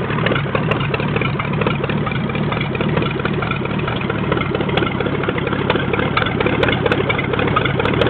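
Ford flathead V8 idling steadily, running evenly shortly after a cold start.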